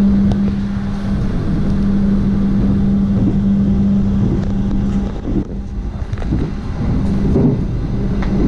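Running noise inside a moving stainless-steel passenger coach: a steady low rumble with a constant hum, which drops out briefly about five seconds in.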